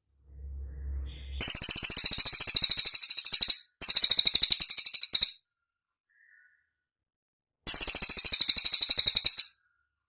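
Cililin bird singing: three bursts of very rapid, high-pitched trilling notes, roughly ten notes a second and about two seconds each. The first two run almost together, and the third comes after about two seconds of silence. A faint low hum comes before the first trill.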